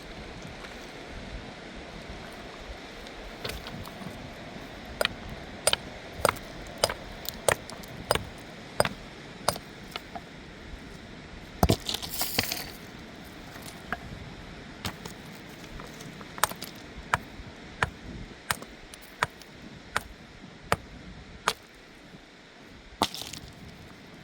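A run of sharp, clinking knocks of something hard being struck, about three every two seconds, in two spells, with one louder crack and a brief hiss between them, over a steady rushing background.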